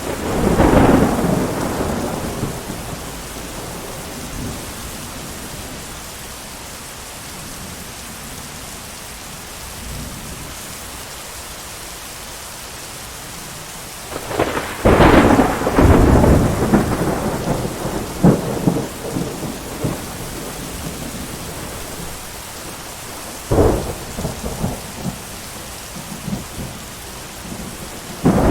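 Steady heavy rain with rolling thunder. A peal fades out just after the start. A long crackling roll of thunder comes about halfway through, a sharp crack follows later, and another peal begins at the very end.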